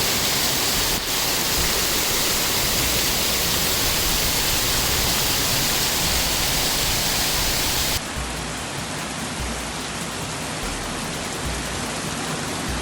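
Heavy rain falling in a steady, even rush. About eight seconds in it cuts abruptly to a quieter, duller stretch of rain.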